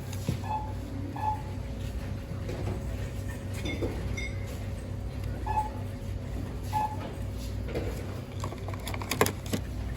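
Store background: a steady low hum with a handful of short, high beeps, and a few sharp clicks about nine seconds in.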